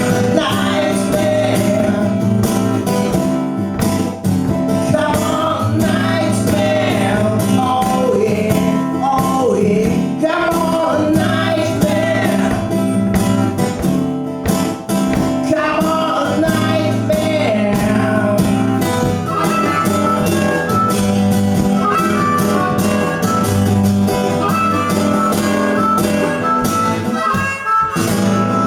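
Live music from a two-piece band playing a song, with held melody notes over a steady accompaniment and some bent notes partway through.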